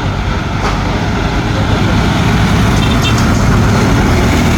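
Scania truck's diesel engine running steadily, a continuous low rumble.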